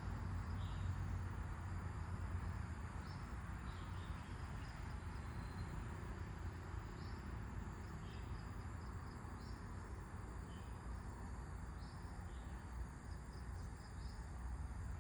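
Outdoor nature ambience: wind blowing with a steady low rumble, short high bird chirps scattered through it about every second or two, and a faint steady high-pitched insect drone.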